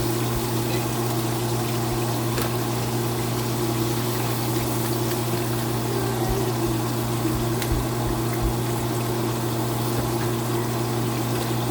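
Chicken deep-frying in hot oil: a steady sizzle over a low, even hum, with a couple of faint ticks.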